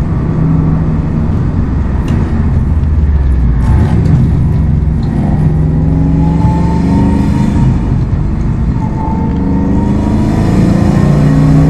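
Subaru WRX STI's turbocharged flat-four engine pulling hard under acceleration, its note climbing in pitch. There is a short dip around eight seconds in, then it climbs again.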